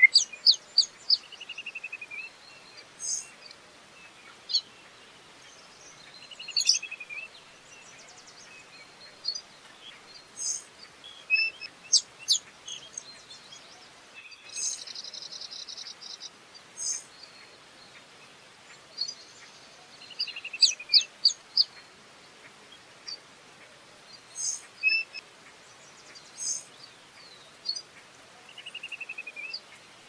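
Several birds chirping and calling: quick high chirps and short whistles, with a falling trill that comes back now and then.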